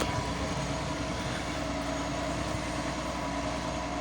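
Heavy diesel machinery engine running steadily at an even pitch, with a few faint steady tones over the engine noise.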